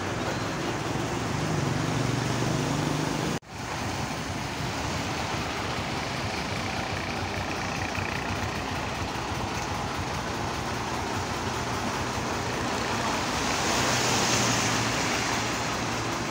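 Heavy diesel engine running steadily. The sound drops out for an instant about three seconds in and swells louder, with a hiss, near the end.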